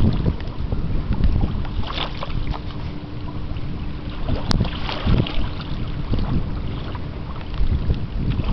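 Wind buffeting the microphone outdoors: an uneven, gusting low rumble, with a faint steady hum underneath that stops about halfway through.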